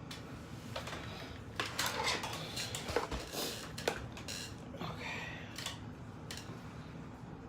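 Small hard objects clicking and clinking as they are handled and set down, a few sharp knocks among them, over a steady low hum.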